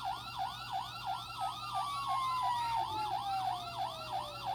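Electronic siren sounds from 1:18-scale toy police cars: a fast yelp repeating about four times a second, layered with a slow wail that slides steadily down in pitch.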